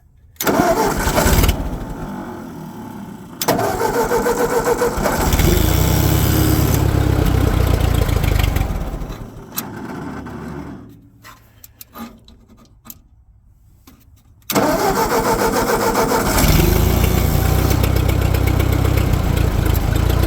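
Ford 8N tractor's four-cylinder engine being cold-started: it is cranked and catches, runs for several seconds, then dies away. It is started again about fourteen seconds in and settles into a steady run.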